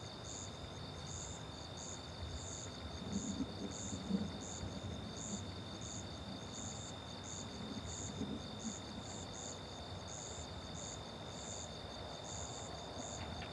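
Night chorus of crickets and other insects: one steady high trill, a faster pulsing trill and higher chirps repeating about two to three times a second. A faint low rumble comes and goes about three to four seconds in and again near eight seconds.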